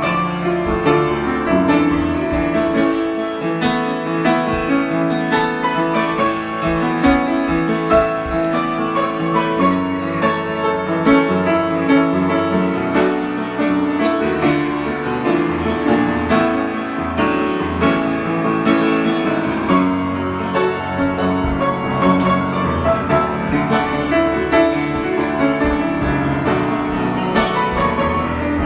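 Solo piano improvisation, played continuously with many overlapping, sustained notes.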